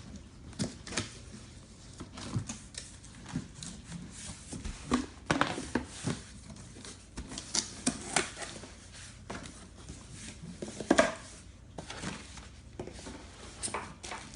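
A cardboard box being opened by hand: irregular knocks, clicks and scrapes of cardboard and packaging, with the loudest knock about eleven seconds in.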